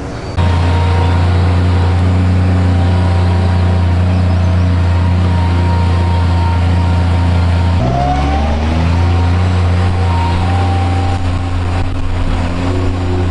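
Small digger (mini excavator) running under load: a steady engine drone with a higher whine on top, coming in suddenly about half a second in. About eight seconds in the pitch dips and then glides back up as the machine works.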